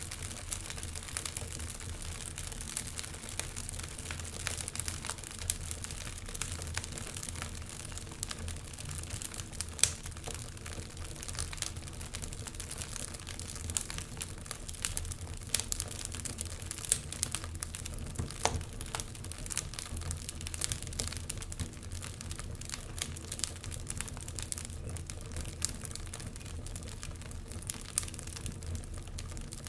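Wood fire burning in a fireplace, with frequent irregular crackles and pops over a steady low rumble of the flames.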